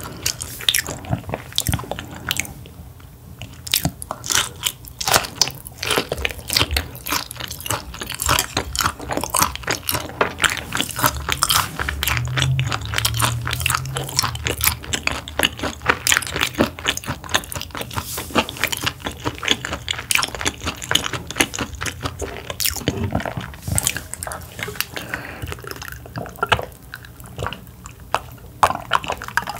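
A person eating sea bass close to the microphone: continuous chewing and biting, with dense, quick crisp crunches and wet mouth clicks.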